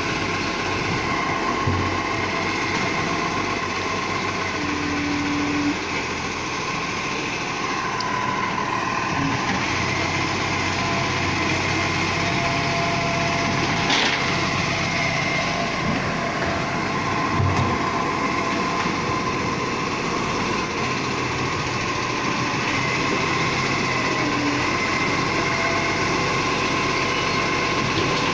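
Garbage truck running steadily, a continuous mechanical noise with a constant whine, and a couple of brief knocks.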